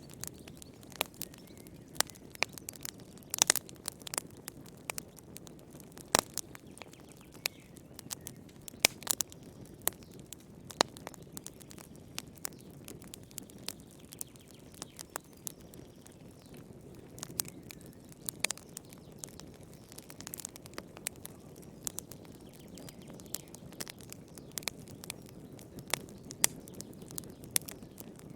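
Wood fire burning in a fireplace: a low, steady rush of flame under sharp, irregular crackles and pops of burning wood, several a second.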